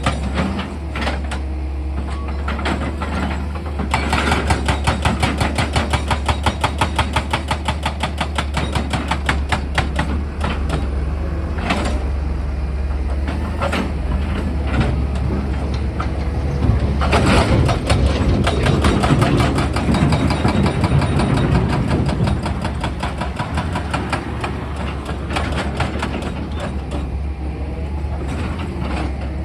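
Excavator's diesel engine running with a steady low hum, under a rapid, even train of knocks from its drilling attachment. The knocks pulse most strongly between about 4 and 10 seconds in, and the sound grows heavier and rougher for a few seconds past the middle.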